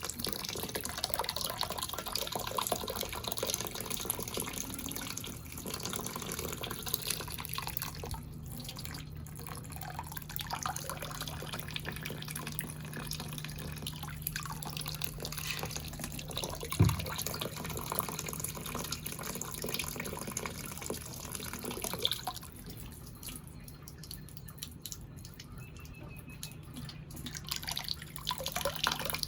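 Water dripping and splashing in many small irregular drops, with a faint steady low hum underneath and a single thump a little over halfway through.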